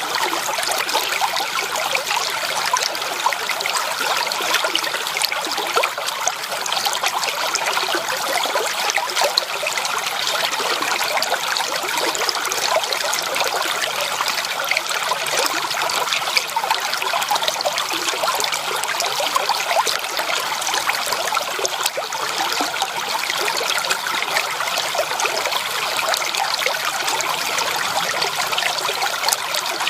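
Creek water trickling and babbling steadily over stones, a continuous splashing.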